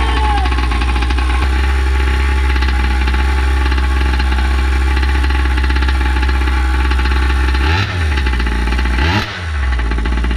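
Primal RC Raminator's two-stroke gas engine idling steadily during its break-in heat cycle, with two short quarter-throttle blips near the end, a little over a second apart.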